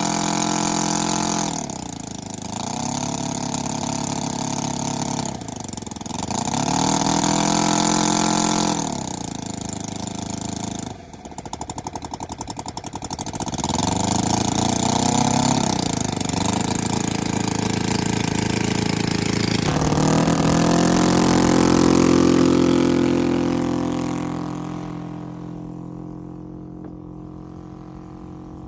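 60cc NGH 60i2 inline-twin two-stroke gasoline engine of a large RC model plane being run up: it revs up and back down several times, drops briefly to a low idle where the separate firing pulses can be heard about halfway through, revs again, then falls away quieter near the end.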